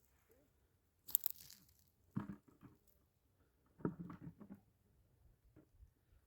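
Faint crunching and rustling: a short hissing rustle about a second in, then two brief clusters of crunches near two and four seconds in.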